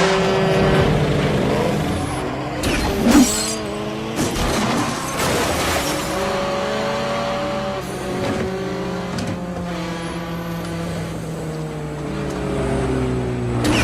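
Car engines revving and passing at speed, their pitch rising and falling, in a film chase soundtrack, with a sudden loud burst about three seconds in.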